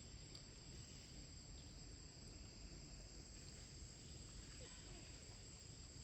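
Near silence: faint background with a steady, high-pitched insect drone.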